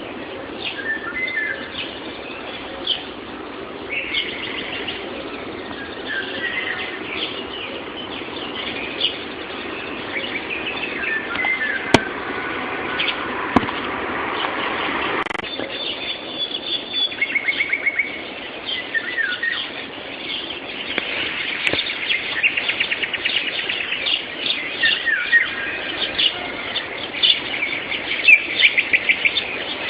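Morning bird chorus: several songbirds singing and calling over one another in a run of chirps, trills and whistles, with a few sharp clicks near the middle. The sound is thin and cut off in the top end, as picked up by a mobile phone.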